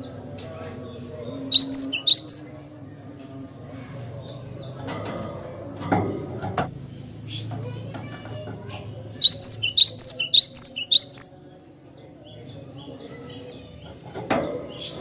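Cinereous tit (glatik batu) singing: two bursts of sharp, high, repeated chirps, a short one about a second and a half in and a longer run of about eight notes around the middle, with fainter bird notes between them. Two brief knocks sound midway and near the end.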